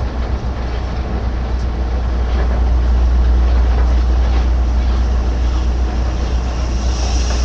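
Heavy machinery on a sand dredger running steadily: a deep constant hum under a noisy rumble, with a brief hiss near the end.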